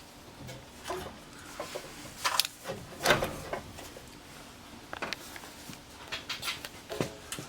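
Scattered clinks, knocks and scrapes of hand tools and metal engine parts being handled, with one louder knock about three seconds in.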